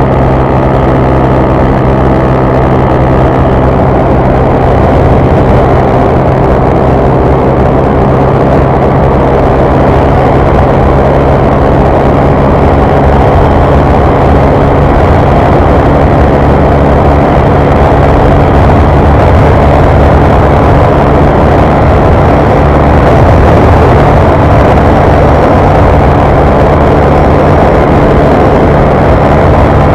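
Honda CG 150 Fan's single-cylinder four-stroke engine running steadily at high revs, heard from on board, with wind noise over the microphone.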